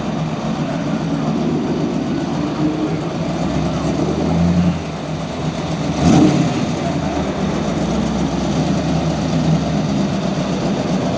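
Car engines idling steadily at a car show, with background voices. One engine swells louder about four seconds in and drops off sharply, and a short, sudden loud sound comes about six seconds in.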